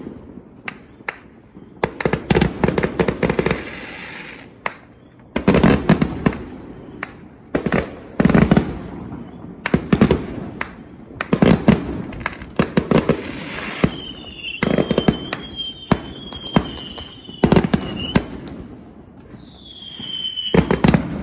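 Fireworks going off in rapid strings of bangs and crackling, with shrill whistles through the second half.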